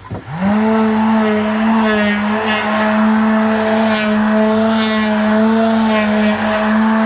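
Electric woodworking power tool motor starting up and settling into a steady running hum, with short higher rasps coming and going about once a second.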